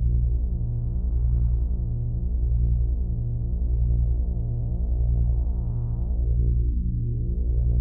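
Lefty's Sound Lab King Drone analog six-oscillator synth sounding a low drone that throbs at an even, slow pulse. Its filter opens and closes slowly, so the tone brightens about a second in, again past the middle, dulls briefly near the end, then opens once more.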